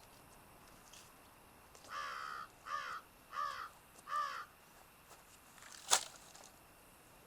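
A crow cawing four times in a row, each caw a short call that arches up and down in pitch. A single sharp click follows a couple of seconds later.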